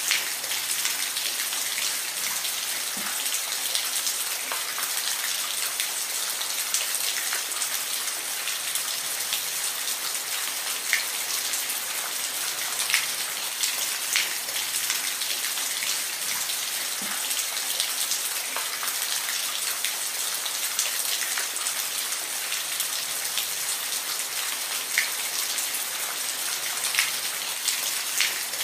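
Steady rain falling, a constant hiss with scattered louder individual drops hitting a surface.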